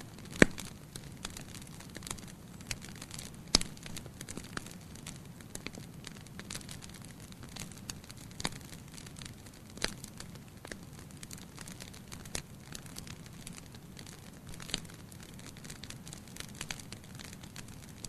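Wood fire crackling in a fireplace: irregular sharp pops and snaps over a low steady hiss, with the loudest pops about half a second in and again about three and a half seconds in.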